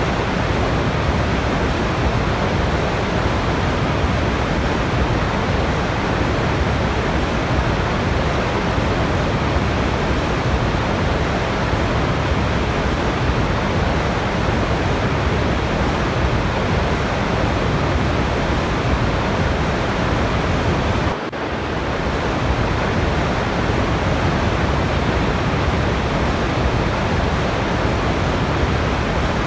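Steady rushing of a waterfall, an even, unbroken wash of water noise, with a momentary dip in level about two-thirds of the way through.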